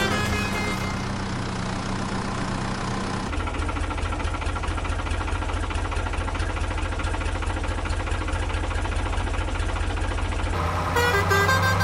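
Heavy diesel engine running with a fast, even chugging pulse that turns rougher and lower about three seconds in. Music with pitched, horn-like tones comes back about a second before the end.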